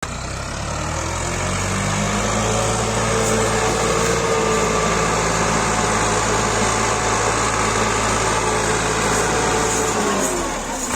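Massey Ferguson 260 turbo tractor's diesel engine revving up and held at high revs under load, straining to pull a sugarcane-loaded trolley stuck in mud. The revs drop near the end.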